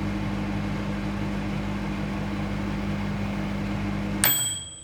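Microwave oven running with a steady hum, stopping suddenly near the end with a single ringing ding that fades away, the signal that the heating cycle has finished.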